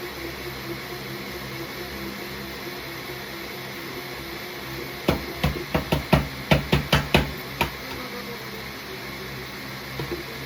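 About halfway in, a quick run of roughly a dozen sharp knocks lasting a couple of seconds, over a steady background hum.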